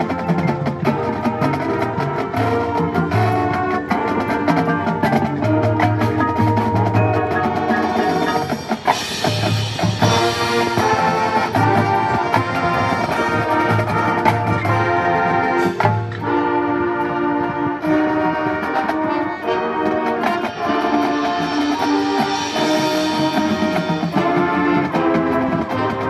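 High school marching band playing its field show: brass (trumpets and trombones) carrying sustained chords over drums and percussion, with a brief dip about nine seconds in before a loud swell.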